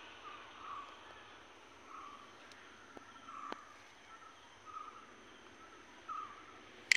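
Faint outdoor ambience with a bird repeating a short call five times at even intervals, and a couple of light clicks near the middle.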